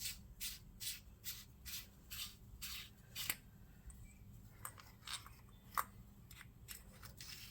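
A torch's push switch clicked over and over, about two or three clicks a second for the first three seconds, then more irregularly; the light doesn't come on because its batteries are dead.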